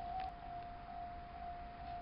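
A steady electronic tone held at one pitch, slightly pulsing in strength, over a faint hiss.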